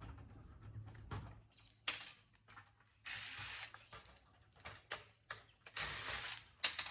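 Hands working on a home theater unit's metal casing: scattered clicks and taps, with two short scraping sounds, about three seconds in and again near the end.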